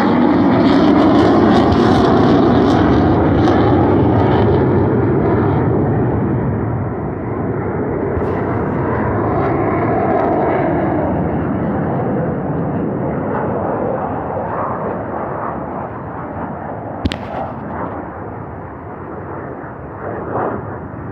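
Military jet aircraft passing overhead with a loud engine roar that is strongest in the first few seconds and then slowly fades as they fly away.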